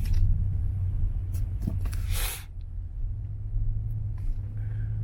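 Steady low rumble of a V6 Dodge Charger driving on snowy, slushy roads, heard from inside the cabin. A brief hiss about two seconds in.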